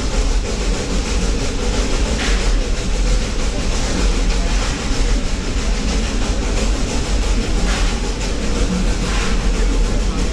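Steam train running along the track, heard from on board: a steady, heavy rumble of wheels on rails, with a few short, sharper noises over it.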